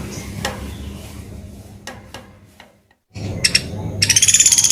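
A few scattered clicks, then about four seconds in a high, rapid trill starts from a pelatuk beras (sampit) songbird.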